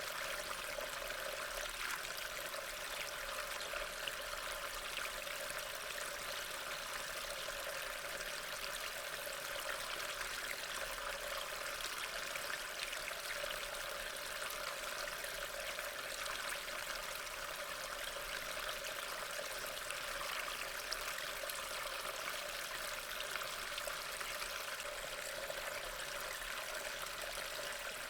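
Steady rain: a continuous even hiss with many small drop ticks, unchanging throughout.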